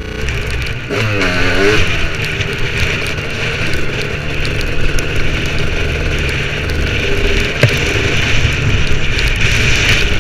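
KTM 200 EXC two-stroke single-cylinder trail bike engine running steadily under way as the bike is ridden along a gravel lane.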